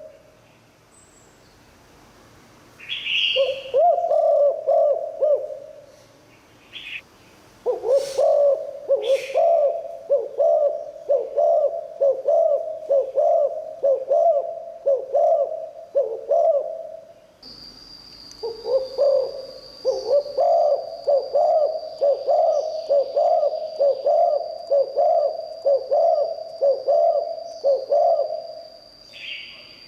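Spotted dove cooing in three long runs of rapidly repeated low coos, with a pause between each run. Short, higher bird calls come in between the runs, and a thin steady high whine starts about halfway through.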